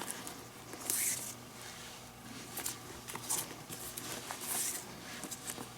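Leather glove lace and glove leather being handled and pulled: soft intermittent swishes and small clicks, with two brief louder swishes about a second in and about four and a half seconds in.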